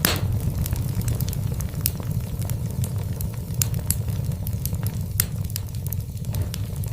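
Wood fire burning in a fireplace: a steady low rumble of the flames with frequent, irregular crackles and pops from the burning logs.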